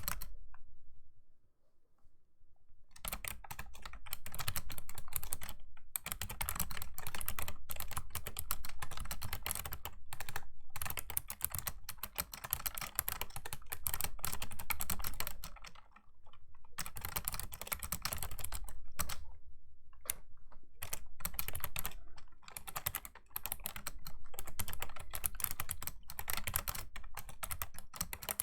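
Fast typing on a Razer Ornata Chroma V2 keyboard, its mecha-membrane keys clicking in quick runs. The typing stops for about two seconds near the start and breaks off briefly a few more times between runs.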